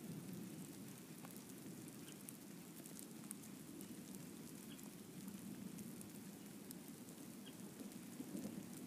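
Steady rain in a thunderstorm: a low, even rush of falling rain, with scattered sharp ticks of single drops striking a hard surface.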